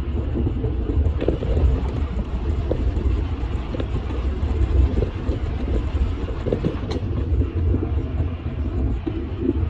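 Electric golf cart rolling across a bridge: a steady low rumble of tyres on the deck, with scattered small knocks and rattles.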